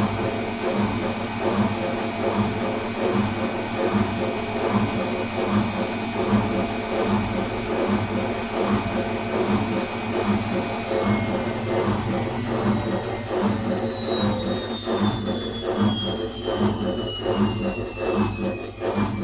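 ATLANT 50U101 washing machine spinning at high speed with a steady motor whine over a rhythmic drum pulsing; about eleven seconds in the whine starts falling in pitch as the drum slows, the spin winding down.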